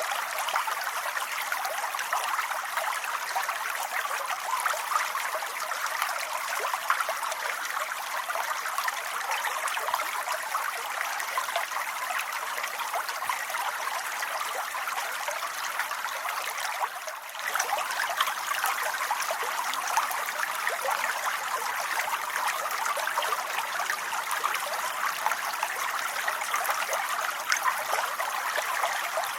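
Steady rain, a dense even patter of drops hissing, which dips briefly about halfway through.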